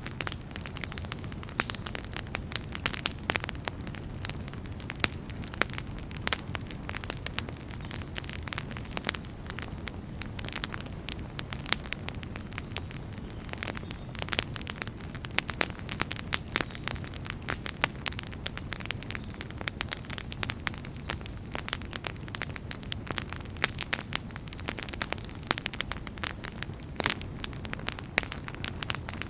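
Wood fire burning in a fireplace, crackling and popping steadily with many small irregular snaps over a low, soft rumble of the flames.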